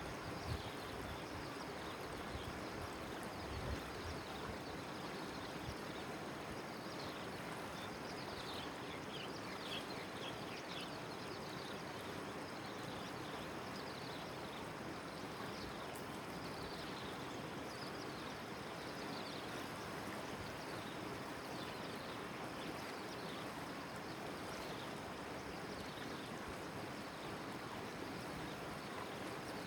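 Steady rush of river water flowing past a small boat, with a few low knocks near the start. Short high falling chirps are heard through the middle stretch.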